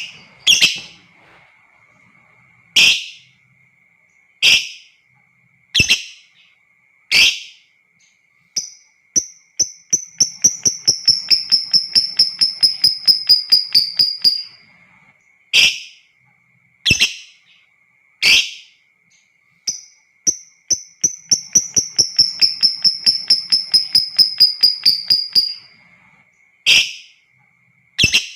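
Lovebird calling: single sharp shrieks about every second and a half, broken twice by a long, rapid chattering trill of some five seconds, the long 'ngekek' call that keepers prize in a bird in full song. A faint steady high tone runs underneath.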